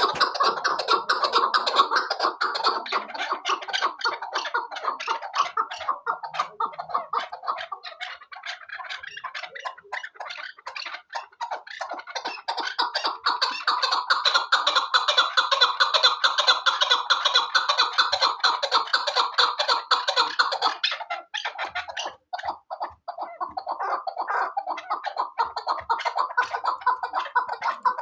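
Chukar partridge calling: a long, rapid run of rhythmic clucking notes, with a brief break about three-quarters of the way through before it resumes.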